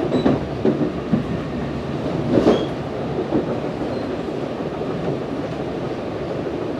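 Ride noise inside a moving NJ Transit Multilevel passenger coach: a steady rumble of steel wheels on the rails. A few knocks from the wheels and track come in the first three seconds, the loudest about two and a half seconds in, and the running then settles to an even rumble.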